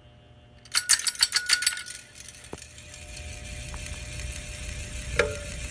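Metallic rattling and clicking for about a second. Then the For Living Oyster ceiling fan's motor runs on low speed with a steady buzzing hum that builds up, which the owner puts down to the bearings. A single sharp metallic click near the end.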